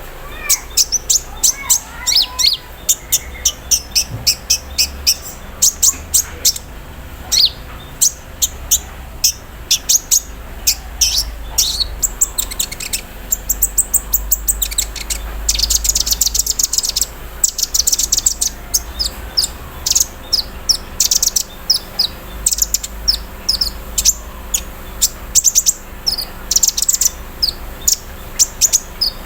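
Kolibri ninja sunbird singing a fast, continuous run of high, sharp chirps and rapid trills, with a dense buzzing trill about halfway through. Its song includes an imitated sewing-machine-like rattle and a 'cerrr' trill.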